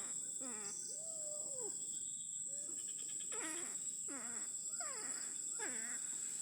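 An animal crying repeatedly: about seven short, wavering cries that fall in pitch, and one longer call that rises and falls about a second in, over a steady high-pitched tone.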